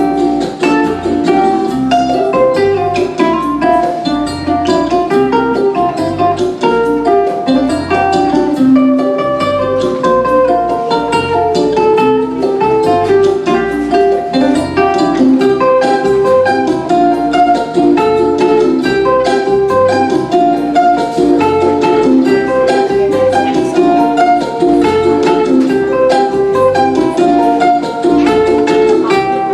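Ukulele played fingerstyle, picking a bright instrumental melody over a recorded backing track with a steady, pulsing bass line.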